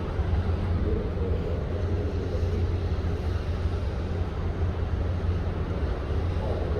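Strong wind buffeting the microphone on a ship's deck at sea: a steady low rumble with a hiss above it and a faint wavering whistle.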